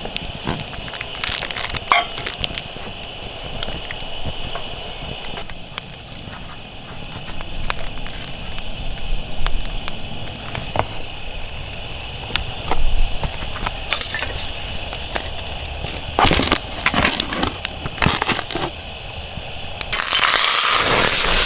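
Wood campfire crackling with scattered sharp pops, with bouts of crunching and rustling handling noise that grow louder and denser near the end.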